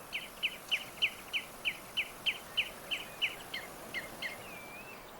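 Malachite kingfisher calling: a fast, even series of short, high, down-slurred notes, about three a second, that slows and fades after about three and a half seconds, ending with one short wavering note.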